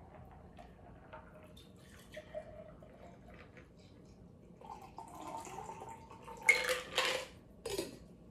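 Shaken cocktail being poured from a shaker into a tiki mug: faint clinks at first, then liquid pouring and splashing with ice and metal clattering, loudest near the end.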